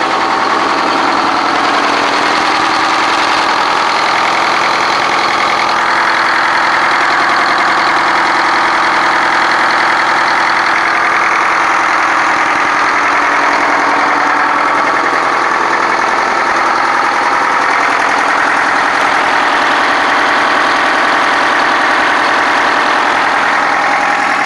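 1984 Detroit Diesel engine on a car crusher idling steadily at low throttle, warming up shortly after a cold start.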